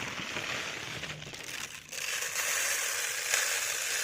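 Dry chick feed poured out into a feeder, a steady rattling hiss of small grains that dips briefly partway through and then runs on louder.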